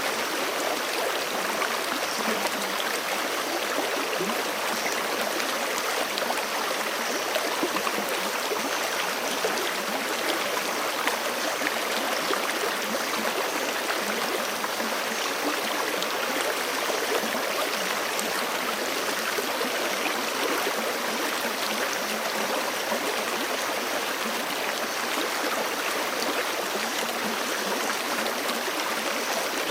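Forest stream flowing steadily over rocks, a continuous rushing and burbling of running water.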